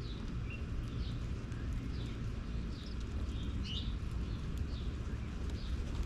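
Small birds chirping in short, repeated calls, several each second, over a steady low rumble.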